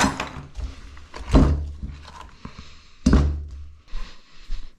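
Two dull thunks about two seconds apart, with light metallic clinks between them: metal parts and washers being handled and set down during an ATV engine rebuild.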